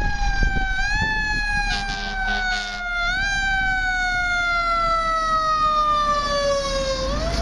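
Emergency vehicle siren sounding one slowly falling tone, pushed back up in pitch about a second in, again at about three seconds and near the end, over a steady low rumble.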